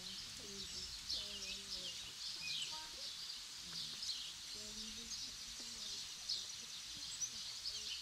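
Small birds chirping and singing in a spring forest, a steady scatter of short high notes several times a second, with faint voices of people talking in the background.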